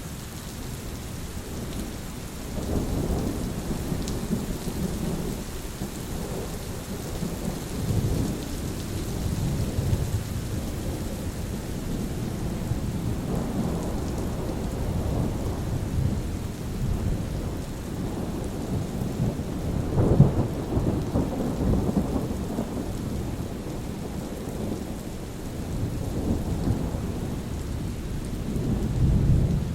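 Thunderstorm: steady rain falling, with low thunder rumbling and rolling throughout, swelling several times and loudest about two-thirds of the way in.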